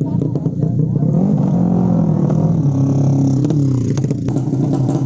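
Racing underbone motorcycle engine revving hard, its pitch climbing about a second in, holding, then dropping back near the end.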